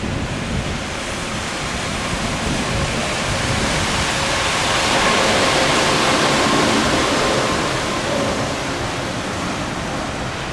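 Jet engine roar from a KC-135 Stratotanker flying overhead: a steady rush that swells to a peak about halfway through and then eases, with a faint steady whine under it.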